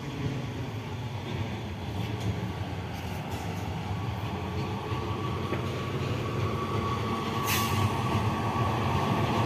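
Freight train of loaded coal hopper wagons rolling on the rails with a steady low rumble and a faint steady whine, growing gradually louder as the electric locomotive comes closer.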